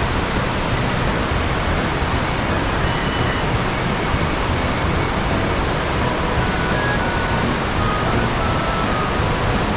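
Rhine Falls waterfall: a steady, dense rush of heavy water falling.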